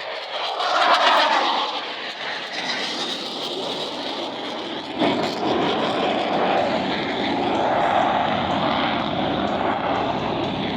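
Jet noise from Blue Angels Boeing F/A-18 Super Hornets with General Electric F414 engines flying past, a steady loud rush. A deeper, louder rush comes in suddenly about five seconds in.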